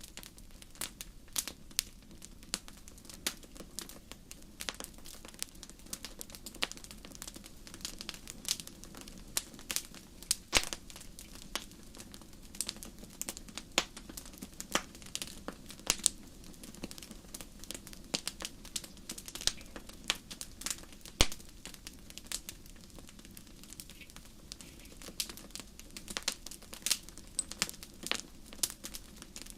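Wood fire burning in a fireplace, crackling steadily with irregular sharp pops and snaps over a low, even rush of flame. Two of the pops, about ten and twenty-one seconds in, are louder than the rest.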